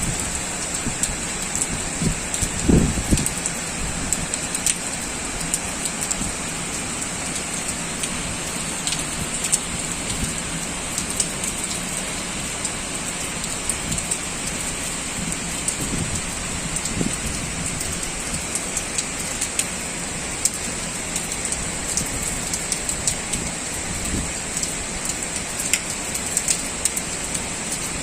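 Heavy typhoon rain falling steadily, with scattered sharp drops and spatters over the steady hiss and a few low thumps about three seconds in.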